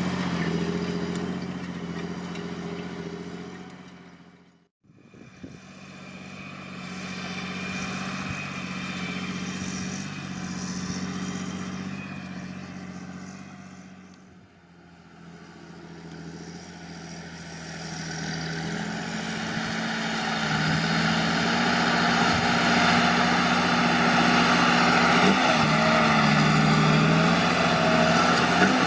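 John Deere 8520T tracked tractor's 8.1-litre PowerTech six-cylinder diesel running under load while pulling a four-furrow plough. The engine note fades almost to nothing about five seconds in, dips again near the middle, then grows steadily louder through the last ten seconds.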